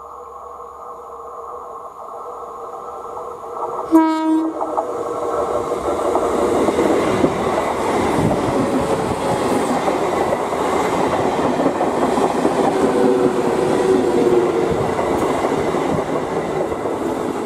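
Electric multiple unit passenger train approaching with a steady whine, then a short horn blast about four seconds in. After that the coaches pass close by at speed in a loud rushing rumble, with the wheels clicking over the rail joints.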